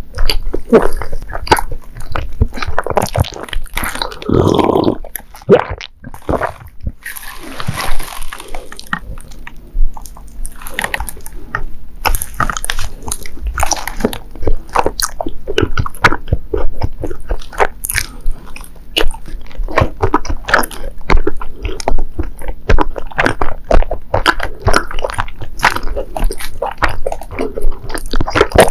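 Close-miked chewing of soft Japanese rice-cake sweets: a dense, irregular run of wet mouth clicks and smacks, with a longer breathy sound about seven seconds in.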